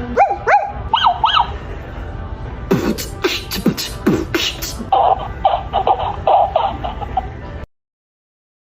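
Vocal sound effects made with the mouth in a beatbox style. First come a few quick wavering vocal whoops, then sharp percussive pops that drop in pitch, then a fast run of rhythmic pulses. It all cuts off suddenly about a second before the end.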